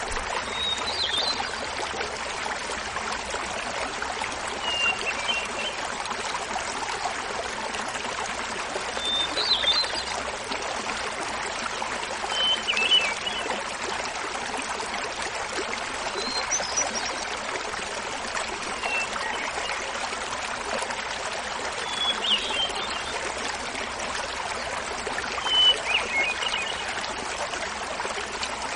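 Small mountain waterfall babbling steadily, with a hermit thrush singing short flute-like phrases every three to four seconds, each phrase at a different pitch.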